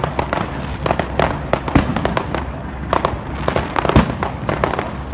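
Fireworks going off: a dense run of overlapping bangs and crackles, with heavier bangs about two, three and four seconds in.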